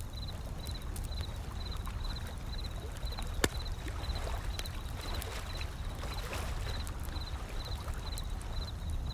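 Wood fire crackling with scattered sharp pops, one louder pop about three and a half seconds in, over the low rumble of ocean waves. A faint high chirp repeats about twice a second.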